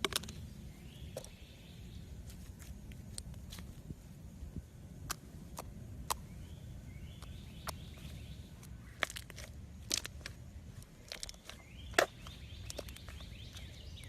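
Slime being squeezed and worked by hand, giving irregular sticky pops and clicks, the loudest about twelve seconds in.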